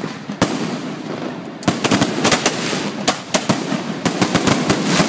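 Fireworks going off in quick succession: a string of sharp bangs and pops over a steady crackle, a few at first and then a dense barrage from about a second and a half in.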